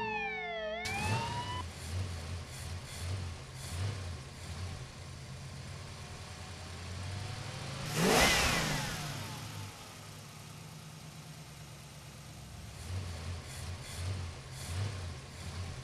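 Car engines revving in repeated surges. Around eight seconds in, one car passes close by, loud, with its engine note rising and then falling as it goes past.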